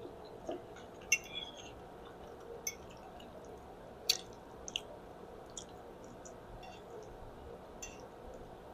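A person chewing spaghetti close to the microphone: soft mouth sounds with a few sharp lip-smacks and clicks scattered through, over a faint steady background hum.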